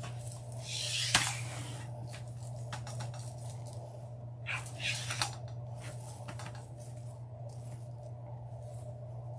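Ribbon and deco mesh rustling as they are handled, with a few sharp clicks and scissor snips, the loudest a click about a second in. A steady low hum runs underneath.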